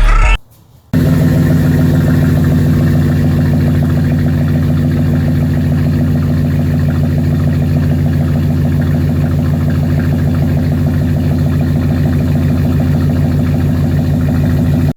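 Vehicle engine idling steadily through its exhaust, with an even, unchanging beat of firing pulses; it stops abruptly at the end.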